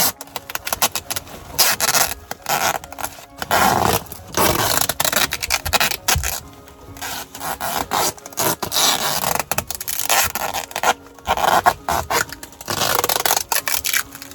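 Irregular rubbing and scraping strokes of hand work on a duct connection, over background music.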